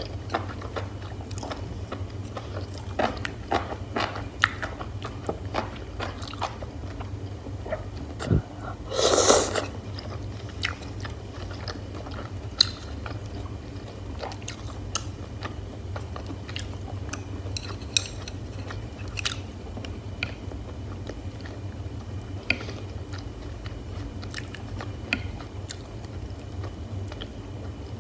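Close-miked eating: a person chewing and biting hotpot beef and mushrooms, with many small wet clicks throughout. A louder rush of noise lasts under a second about nine seconds in. A steady low hum sits underneath.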